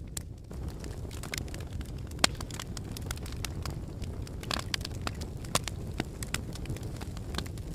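Volcanic eruption: a steady low rumble with frequent, irregular sharp cracks and crackles, a few standing out louder.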